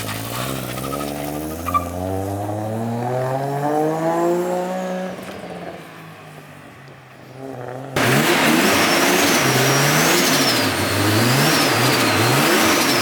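Toyota Chaser's 1JZ straight-six revving: a slow climb in revs that falls away about five seconds in. After an abrupt cut about eight seconds in, it runs louder with the revs rising and falling several times, and a high whine rises and falls with them.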